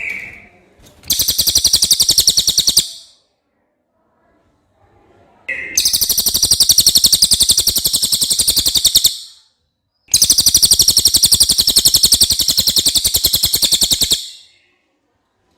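Cililin bird song: three long, very fast trills of high, evenly repeated notes, each lasting two to four seconds, with short pauses between them.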